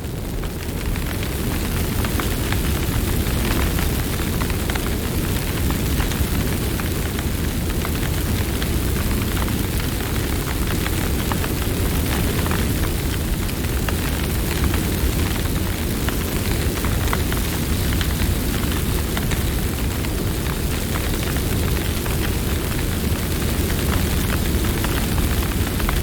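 Campfire burning: a steady low rumble of flames with frequent crackles and pops from the burning wood.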